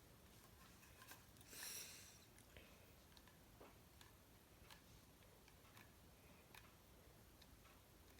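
Near silence with faint, irregular light clicks of a filling tool against the pottery as filler is worked into the bowl's crack, and a brief soft hiss about a second and a half in.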